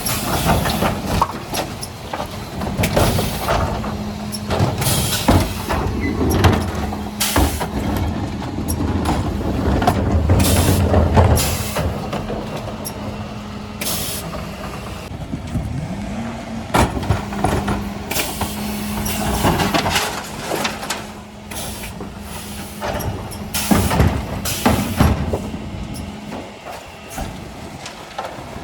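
Mercedes Econic refuse truck with a Faun Variopress body and Zoeller bin lifters at work: a steady hum runs under repeated clanks and knocks, with short hisses of air.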